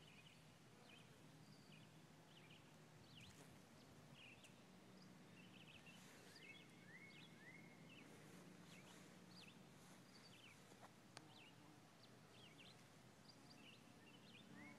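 Faint birdsong: several birds chirping and calling, with a short phrase of three rising notes repeated twice, over a low steady hum. A single sharp click sounds partway through.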